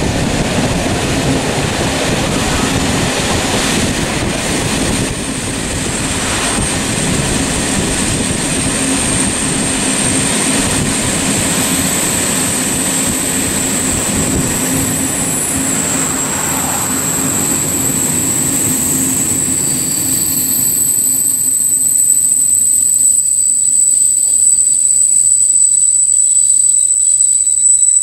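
Steady loud rumbling noise with thin high-pitched squealing tones that come in about a third of the way through and hold; the low rumble eases off near the end.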